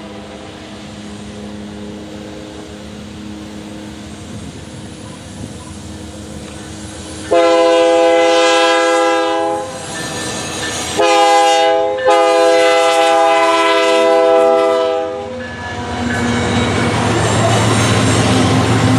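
Leading diesel locomotive's multi-chime air horn blowing two loud long blasts a few seconds apart, after a fainter horn fading out, then the lead diesel locomotives passing close with a steady engine rumble and rolling noise near the end.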